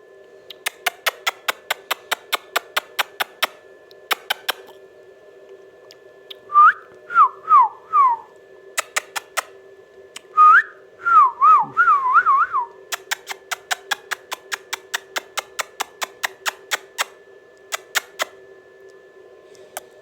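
A parrot whistles two short phrases of clear notes that slide up and down, about six and ten seconds in. Before, between and after them come runs of rapid sharp clicks, several a second, the loudest thing apart from the whistles, over a steady faint hum.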